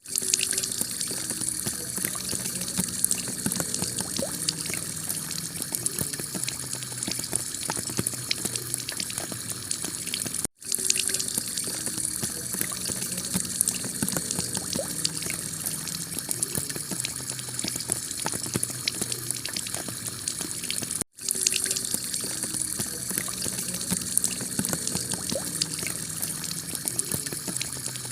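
Heavy rain falling on a clay-tile roof: a steady dense patter of drops. The sound drops out for an instant about every ten seconds, where the same stretch of recording loops and starts again.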